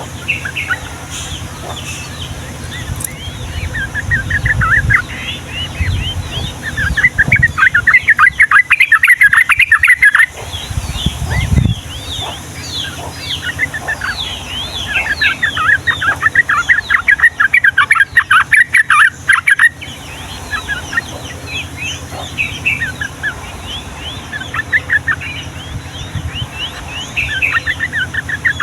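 Yellow-vented bulbuls singing: long, rapid rolling trills in several bursts, with quick downward-slurred chirps scattered between them.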